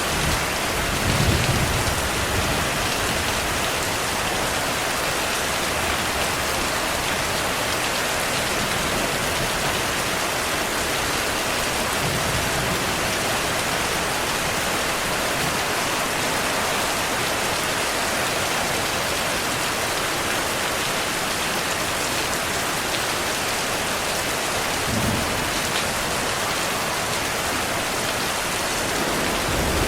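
Heavy steady rainfall, a dense even hiss, with a few brief low thunder rumbles, the strongest about a second in and others around the middle and near the end.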